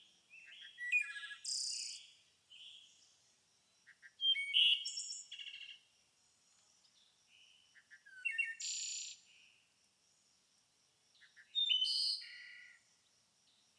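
Songbirds chirping and singing in short, high phrases of quick notes and trills. The phrases come in about four bursts a few seconds apart, with quiet pauses between them.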